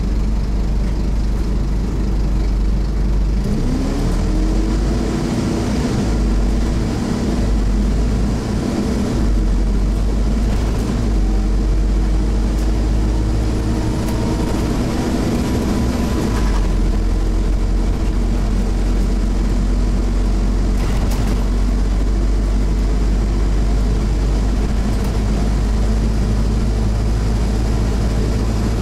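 Scania CN270UB OmniCity bus's diesel engine heard from on board, working hard under load. The engine note rises about four seconds in and then holds steady, and the low rumble shifts again a little after the halfway point.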